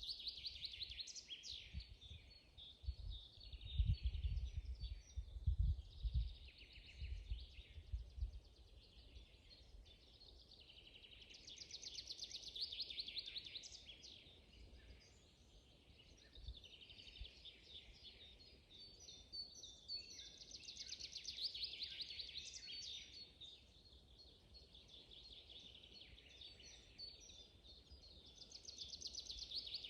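Songbirds singing: a rapid trilled song phrase of two to three seconds comes back about every nine seconds, with other birds chirping in between. Low rumbling thumps during the first eight seconds are the loudest sounds.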